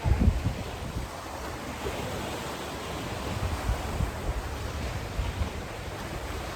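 Wind buffeting the microphone over a steady rushing noise, with a strong gust right at the start.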